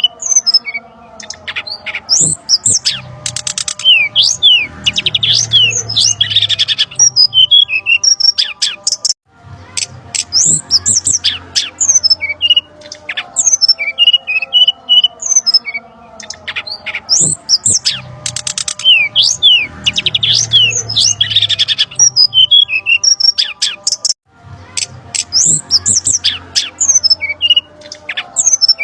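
Looped bird-lure recording of brown-chested jungle flycatchers calling agitatedly: rapid high chirps, squawks and whistled glides over lower steady notes. The loop restarts after a brief dropout twice, about 9 and 24 seconds in.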